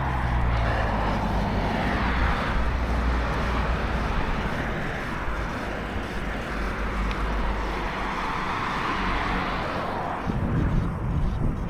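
Mountain bike riding downhill on a wet dirt trail: wind rushing over the microphone and tyres rumbling over the ground, swelling and easing with speed.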